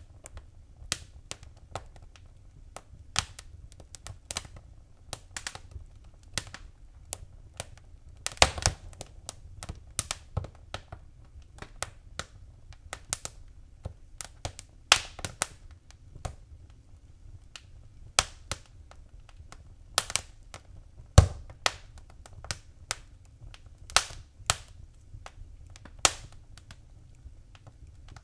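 Wood fire in a fireplace crackling, with irregular sharp pops several times a second over a low steady rumble. One pop about three-quarters of the way through is louder than the rest.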